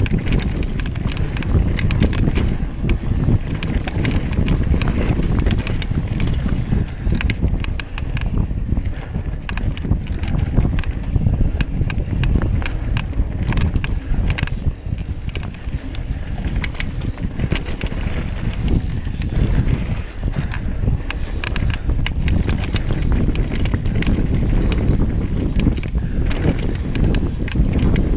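Mountain bike descending a rough trail at speed: continuous wind buffeting on the microphone, with constant rattling and clicking of the bike and tyres over the ground.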